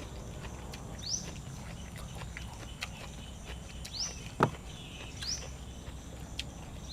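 Close-up eating sounds: chewing and crunching, with scattered sharp mouth clicks and one heavier thud about four and a half seconds in. A few short, high, rising chirps sound over it at irregular intervals.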